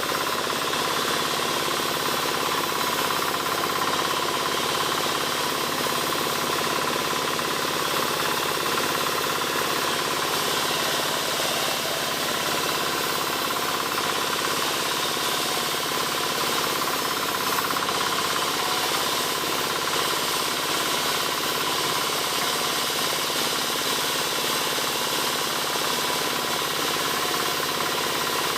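Powered wood saw running steadily, with a dense, even mechanical noise that holds the same level throughout.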